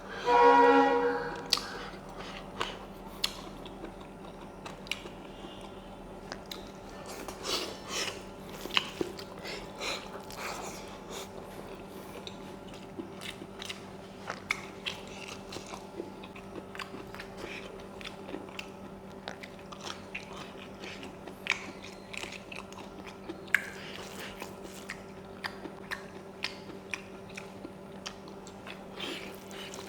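Close-miked eating: chewing and biting on a meal of smoked pork curry with rice, with many small wet clicks and crunches scattered throughout over a steady low hum. A brief voice sounds at the very start.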